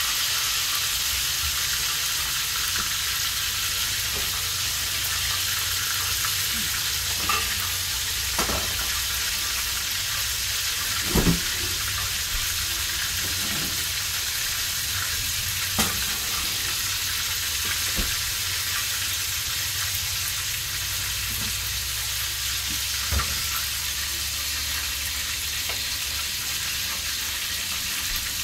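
Chicken frying in hot grease in a pan, a steady sizzle, with a few short knocks, the loudest about eleven seconds in.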